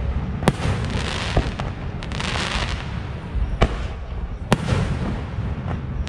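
Fireworks display: sharp bangs of bursting aerial shells about half a second in and again near three and a half and four and a half seconds, with a crackling fizz of crackle stars in between over a steady low rumble.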